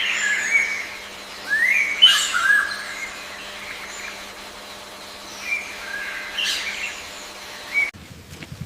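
Birds chirping: groups of short chirps and upward-sweeping calls with pauses between them, over a faint steady hum. The sound cuts off abruptly near the end.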